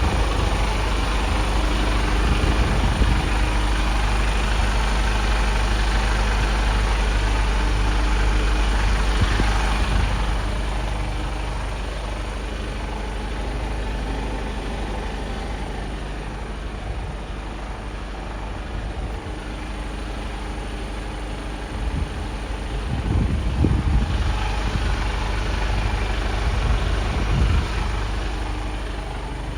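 Mercedes-Benz Actros 1842 truck's straight-six diesel engine running, louder for about the first ten seconds, then quieter, with a few louder swells near the end.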